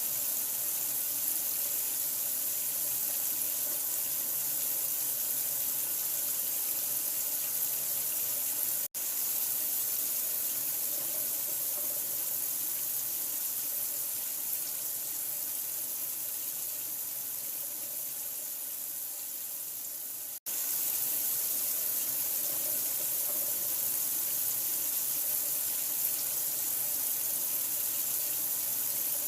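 Steady, hissing running water with no change in flow. The sound cuts out for an instant twice, about nine and twenty seconds in.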